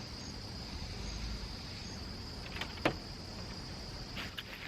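Steady high-pitched chorus of insects, with one sharp click about three seconds in.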